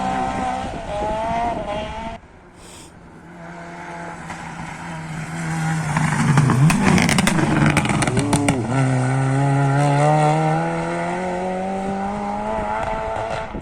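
Rally car engines at full throttle on a stage: one car's engine rising in pitch and cutting off about two seconds in, then another car approaching loud with a quick run of sharp cracks and two gear changes, its engine note climbing steadily as it pulls away and fades near the end.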